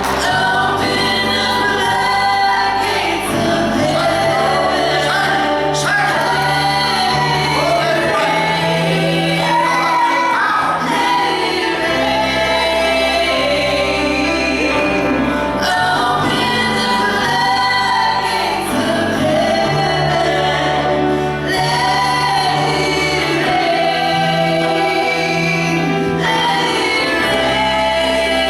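Live gospel music: voices singing with a female lead over a band with a steady bass line.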